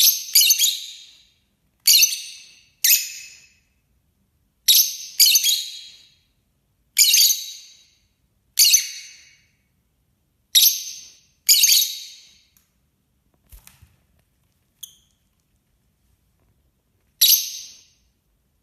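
Small bird giving short, high-pitched calls, about ten in all at uneven intervals, each one trailing off over about a second.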